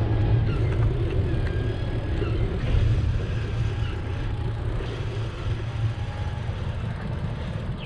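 Steady low rumble of wind on the microphone and rolling noise from a moving bicycle, with faint short high chirps scattered through it.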